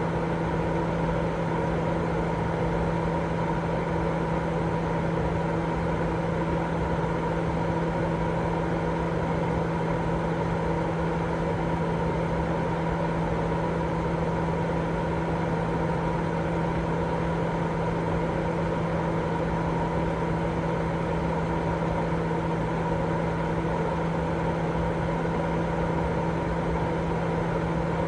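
Steady, unchanging sleep-aid noise, heavier in the low end than true white noise, with a low hum running through it.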